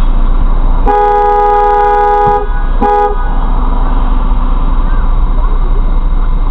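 Car horn honking: one long blast of about a second and a half, then a short toot, over steady street noise.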